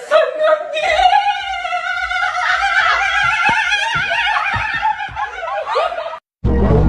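A long, high, wavering vocal note held with heavy vibrato, sung like opera, which cuts off abruptly about six seconds in; dense music starts right after.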